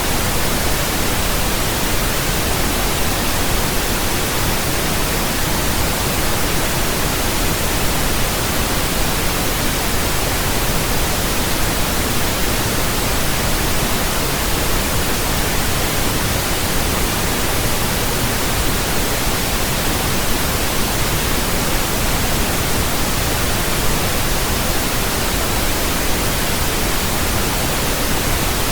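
Steady synthetic pink noise: an even, unchanging hiss spread across all pitches, fuller in the bass than white noise.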